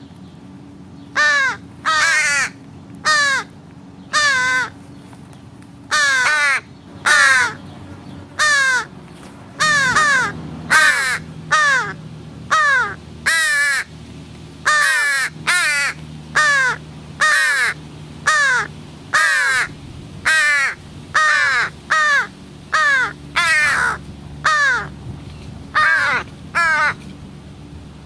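American crows cawing: a long series of loud, harsh caws, about one a second, with short gaps between.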